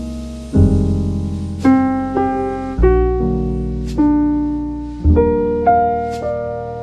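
Background music: slow piano chords, struck about once a second and left to ring and fade, over deep bass notes.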